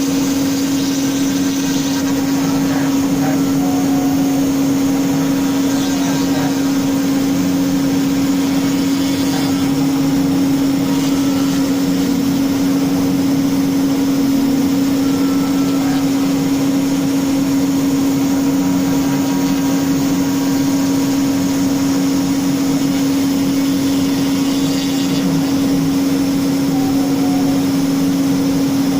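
CNC router spindle running at a steady speed while the bit cuts into wood: a steady hum with a constant tone, and a hiss from the cut that rises and falls a little.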